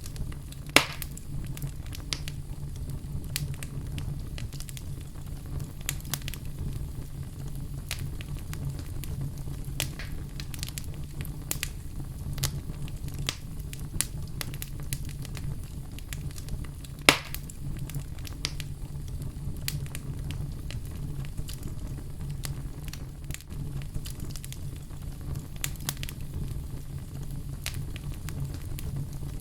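Wood fire burning in a fireplace: a steady low rumble of flame with constant irregular crackling, and two louder sharp pops, about a second in and near the middle.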